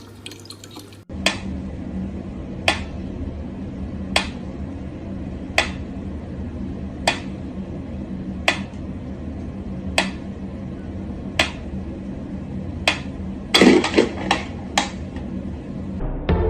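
Sharp clinking taps about every second and a half over a steady low hum, with a quick run of four taps near the end.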